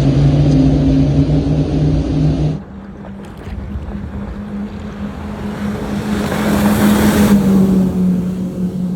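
Powerboat's V10 Mercury outboard engines running under way, a steady low drone. An abrupt change about two and a half seconds in shifts the engine note. The rush of water and wind swells up and falls away around six to seven seconds in.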